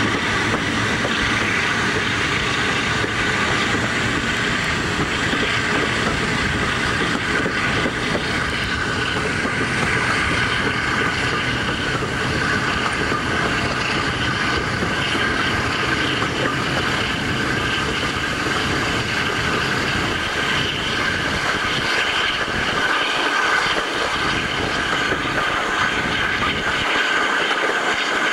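Passenger train hauled by Class 52 diesel-hydraulic D1013 'Western Ranger' running along the line, heard from an open carriage window: a steady rumble of wheels on the rails and the moving coaches.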